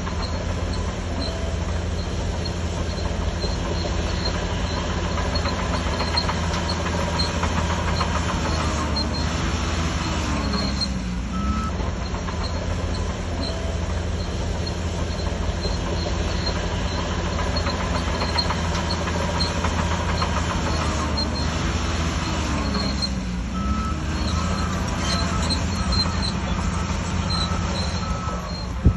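Shantui DH17C3 crawler bulldozer's diesel engine running steadily under load while pushing soil. The engine note dips and climbs back twice, once about a third of the way in and again about three quarters in. A short repeated beep sounds during the last few seconds.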